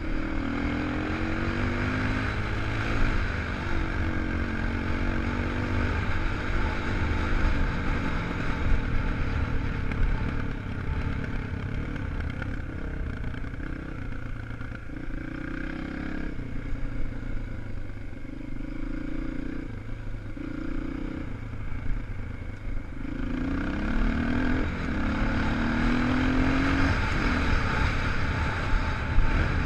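250 cc single-cylinder four-stroke enduro motorcycle engine under hard throttle, its pitch climbing in steps through the gears and dropping back off the throttle, over and over. It eases to a lower, quieter run in the middle, then revs up through the gears again.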